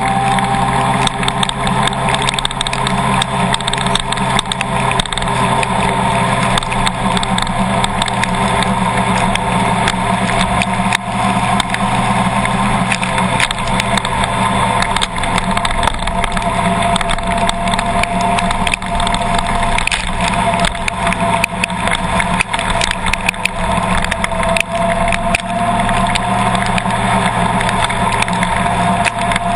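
Vehicle engine running steadily, with a thin whine that wavers slightly in pitch and many small clicks throughout.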